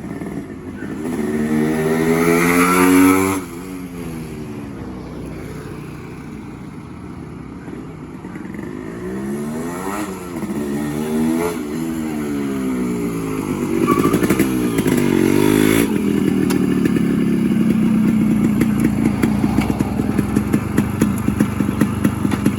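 Yamaha RX100's 98 cc two-stroke single-cylinder engine being revved. A rising rev cuts off sharply about three seconds in and drops back to idle. Quick up-and-down throttle blips come around ten and fourteen seconds, then the engine holds a steadier, louder speed with rapid popping from the exhaust near the end.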